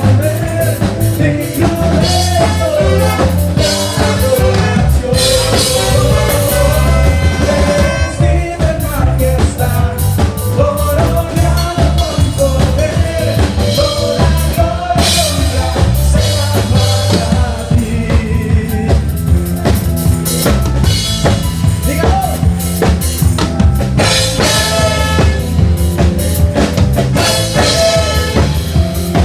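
Live band music: a drum kit keeps a steady beat under a wavering melody line.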